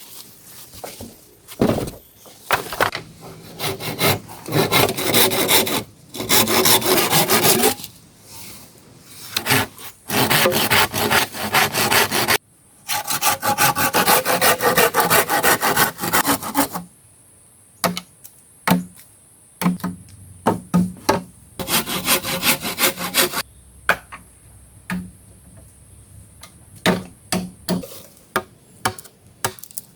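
Hand saw cutting through wood in long rasping strokes of one to three seconds, followed by a run of short sharp knocks on wood in the second half.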